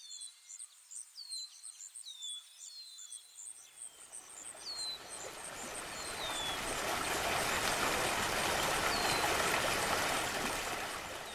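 Birds calling with short falling chirps over a fast, evenly repeating high chirping, giving way about four seconds in to a steady rushing noise that swells and then fades near the end.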